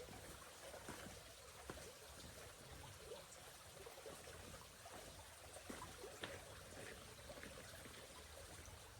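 Near silence: faint outdoor ambience with a few soft, scattered ticks.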